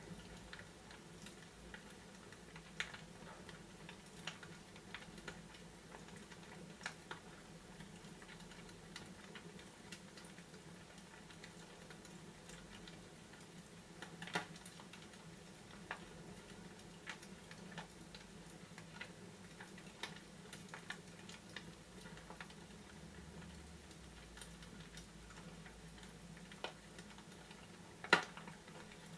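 Fireplace crackling: scattered sharp pops at irregular intervals, one louder pop near the end, over a faint steady low hum.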